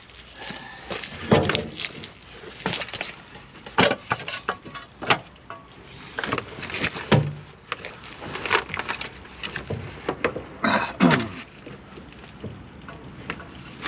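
Irregular metallic clanks and knocks of hitching gear being coupled between a tractor and its implement, with one short falling creak about three-quarters of the way through.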